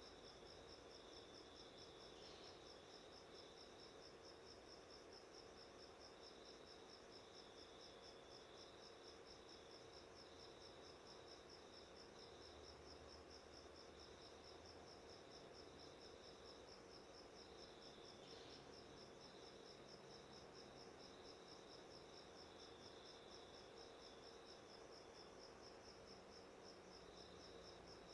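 Faint, steady insect trill: a continuous high-pitched chirping with rapid, even pulses, over low background hiss.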